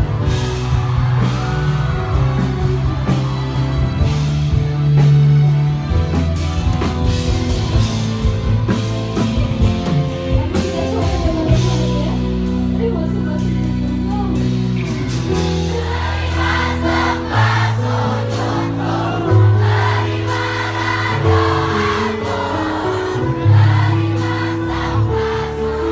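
Amplified live band music with singing: held bass notes shift every second or two beneath the melody, and the singing voice comes through more strongly in the second half.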